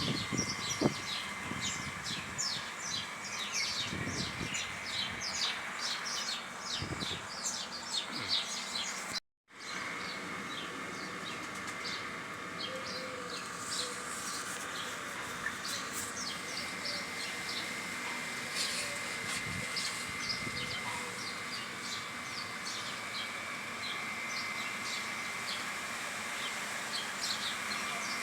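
Many small birds chirping and calling rapidly over a steady background drone. The sound cuts out suddenly for a moment about nine seconds in, then the birdsong carries on.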